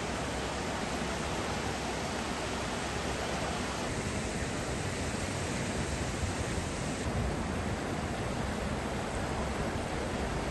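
Floodwater rushing, a steady noise that shifts slightly in character about four and seven seconds in.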